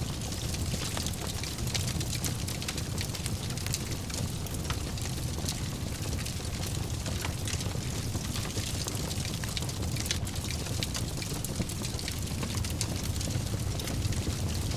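Fire in a fireplace crackling, with many small sharp pops over a steady low rumble of the flames.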